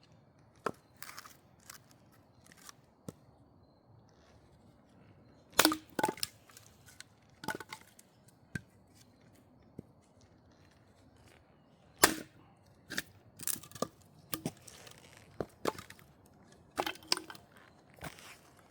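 Firewood being broken up: a series of sharp, irregular wooden cracks and knocks, a few seconds apart, the two loudest about five and a half and twelve seconds in.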